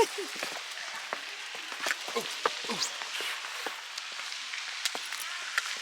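Footsteps scuffing and clicking on a rocky trail, over a steady rushing hiss of running water.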